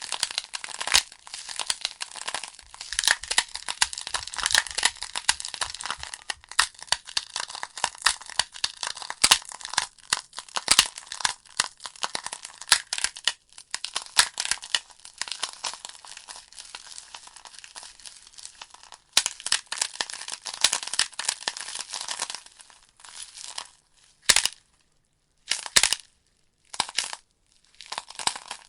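Wood fire crackling: burning logs giving off a dense run of sharp pops and snaps over a soft hiss, thinning near the end to a few separate pops with silences between.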